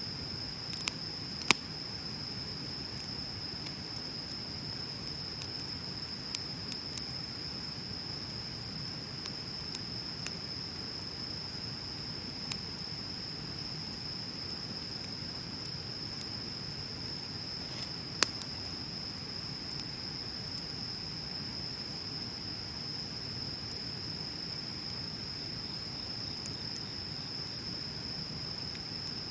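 Wood bonfire burning with a soft crackle and a few sharp pops, the loudest about a second and a half in and again past the middle, over a steady high-pitched whine.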